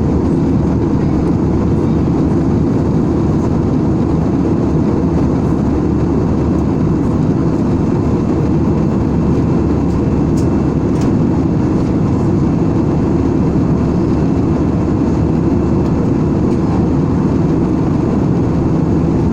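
Airliner cabin noise: a steady, low-pitched rush of engine and airflow noise that does not change.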